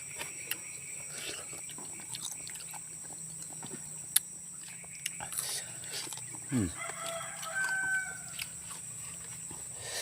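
Crunchy chewing of raw fruit such as cucumber and water apple, heard as scattered sharp clicks and crackles. A short animal call sounds about seven to eight seconds in.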